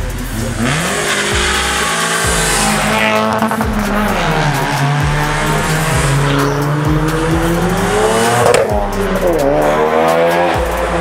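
Modified cars' engines revving hard as they drive past one after another, pitch climbing through the revs and dropping sharply as a car goes by about three quarters of the way in. Music with a low beat plays underneath.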